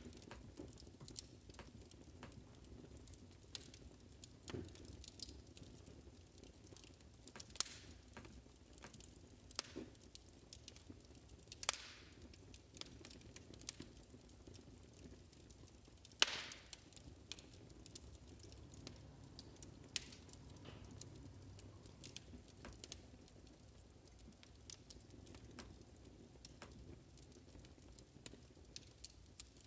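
Wood fire crackling, with irregular soft snaps and pops over a low hiss. A sharper pop comes about sixteen seconds in.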